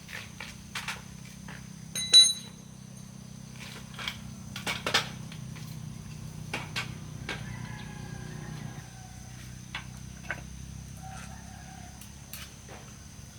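Small metal parts being handled: scattered clicks and taps, with one loud metallic clink that rings briefly about two seconds in, over a low steady hum.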